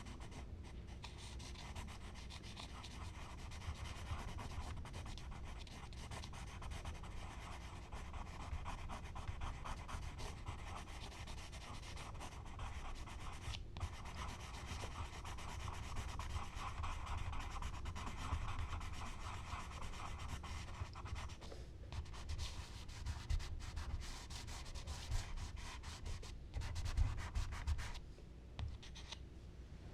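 Charcoal and drawing tools rubbing and scratching across smooth Bristol paper in continuous, irregular strokes, with a few sharper ticks, over a low rumble.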